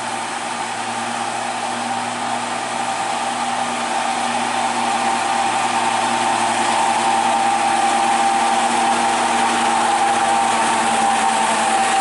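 Old truck's engine running under load on a steep uphill climb, with a steady whine over the engine noise, growing gradually louder.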